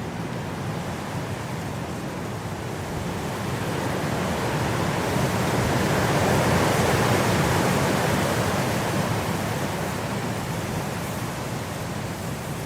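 Blizzard wind blowing as a steady rushing noise, swelling into a gust that peaks about halfway through and then eases off.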